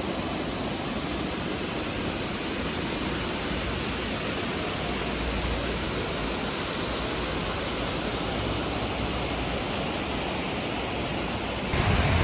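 Waterfall cascades: a steady, even rush of falling water.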